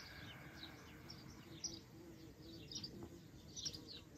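Faint birdsong: short, high, falling chirps, several a second, over quiet room tone.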